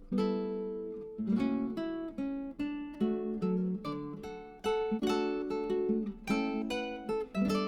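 Background music: acoustic guitar strumming and plucking chords, with notes starting every half second or so and ringing out.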